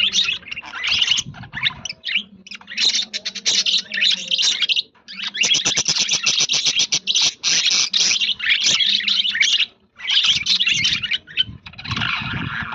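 A flock of budgerigars chattering and warbling together: dense, fast, high chirps in bursts of a few seconds, with short pauses about five and ten seconds in.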